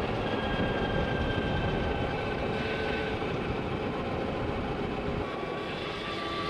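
Wind and road noise rushing over the microphone while riding an Energica Experia electric motorcycle, with a thin steady whine from the electric drive that shifts slightly in pitch.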